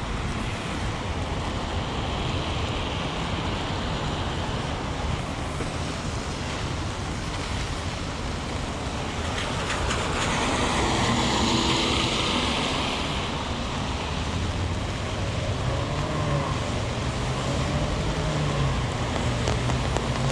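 Heavy rain with traffic on wet city streets. About ten seconds in a vehicle passes with a swell of tyre hiss on the wet road, and a low engine hum carries on through the rest.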